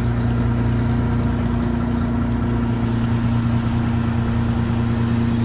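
Fishing boat's engine running steadily at low revs, a constant low hum with no change in pitch.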